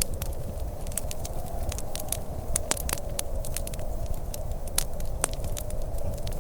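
Wood fire crackling in a fireplace, with many sharp, irregular pops over a steady low rumble.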